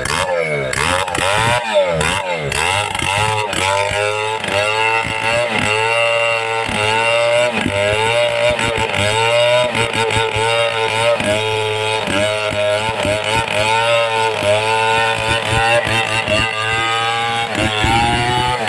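Two-stroke chainsaw running at high revs. Its pitch swings up and down quickly in the first few seconds, then holds high with brief dips about once a second, as when the chain bogs under load while cutting into a tree.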